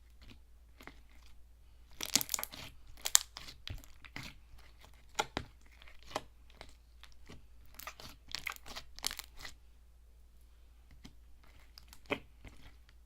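Hands squishing and pressing slime, making crunchy, clicky crackles that come in several short bursts with quiet gaps between them.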